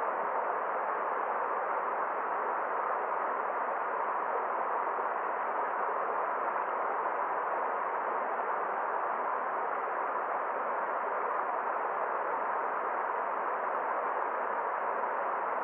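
Steady, unbroken rush of a forest stream's flowing water.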